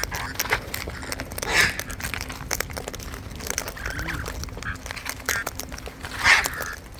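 Parrots giving two short, harsh squawks, about a second and a half in and again near the end, the second louder, over many small clicks and taps.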